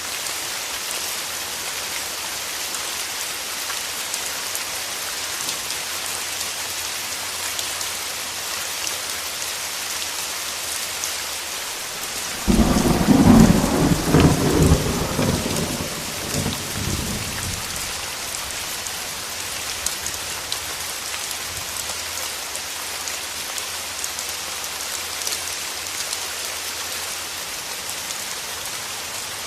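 Steady rain falling, with a sudden clap of thunder about twelve seconds in that rumbles loudly for a few seconds and dies away.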